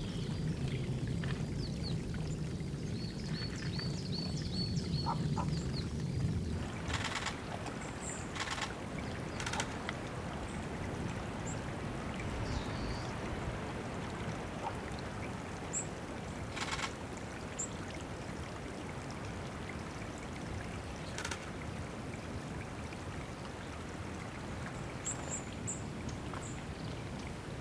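Water running steadily at a small woodland pool, with a handful of short, sharp sounds across all pitches and faint, brief high-pitched bird calls early on and near the end.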